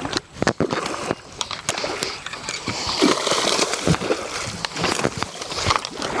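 Water sloshing and splashing with many scattered knocks and clicks as a hooked redfish is fought and brought in beside the angler.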